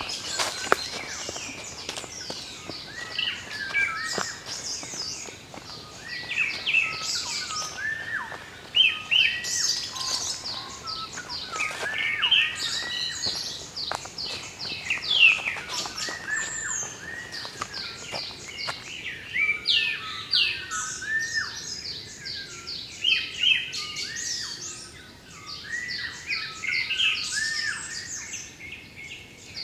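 Several wild birds calling and singing at once: a dense, overlapping chorus of quick repeated chirps and short down-slurred notes.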